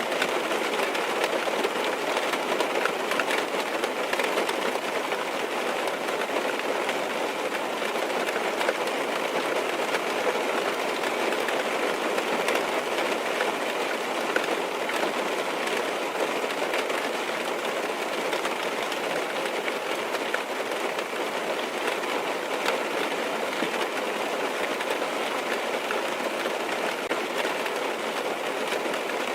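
Steady rain on a car's roof and windows, heard from inside the car: an even hiss with a few faint drop taps.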